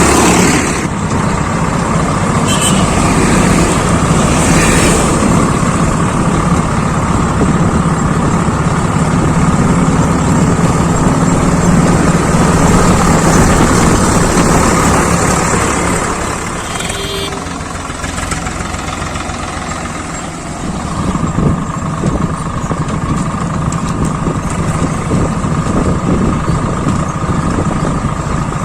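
Swaraj 855 FE tractor's diesel engine running steadily. It drops in loudness for a few seconds past the middle, then comes back up.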